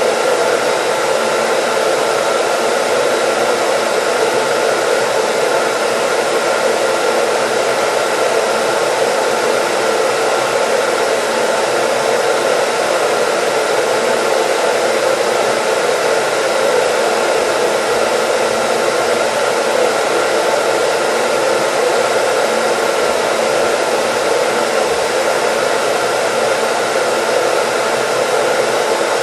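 Hair dryer running continuously at a steady speed, an even rushing hiss of air over the motor's hum that never changes.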